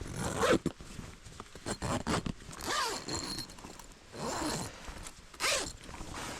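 A zipper being pulled in several short strokes, about five in all, each with a sweeping, bending pitch.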